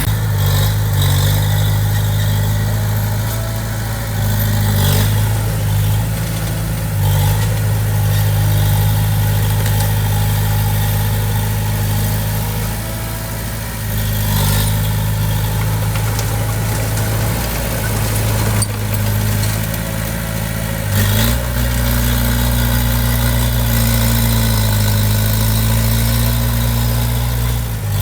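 Diesel engine of heavy construction machinery running steadily at a low, even pitch. About three-quarters of the way through it steps up slightly in pitch and grows fuller, with a few faint knocks along the way.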